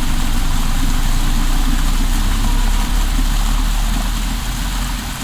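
Small hill-stream waterfall: a steady rush of water with a low rumble underneath.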